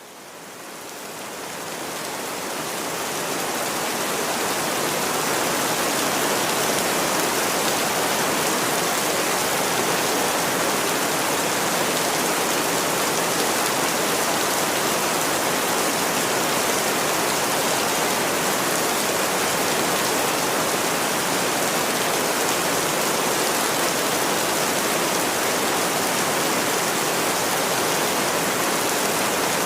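Steady heavy rain, a dense even hiss, fading in over the first few seconds and then holding level.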